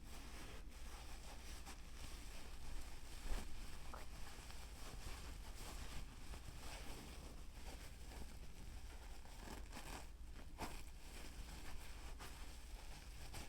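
Close-miked ASMR trigger sounds: irregular soft scratching and rustling strokes with a few light clicks, over a steady low hum.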